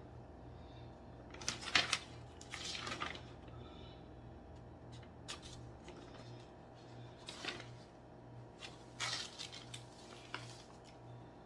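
Scattered light clinks, clicks and short rattles of small metal furniture hardware being handled, over a faint steady low hum. The busiest stretch of clinks comes about two seconds in, with another cluster near the end.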